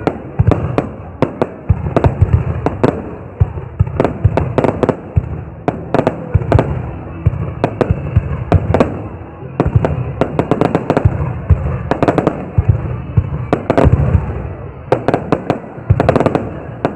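Fireworks display: many loud, irregular bangs and cracks in quick succession over a steady low rumble.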